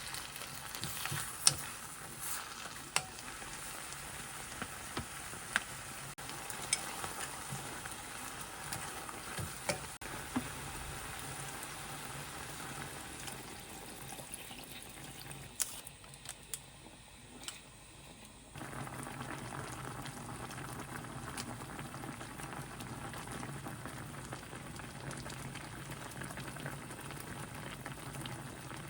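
Food sizzling and frying in a pan, with scattered sharp clicks of a utensil stirring. The sizzle drops lower a little past the middle, then comes back up abruptly.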